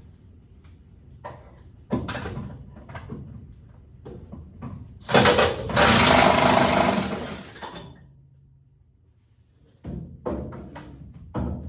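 An impact wrench runs in one loud burst of about three seconds, loosening a truck bed mounting bolt, among scattered clanks and knocks of tools and metal.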